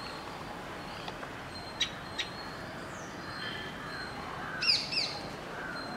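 Birds calling: two sharp short chips about two seconds in, faint falling whistles, then a pair of loud, clear falling calls near the end.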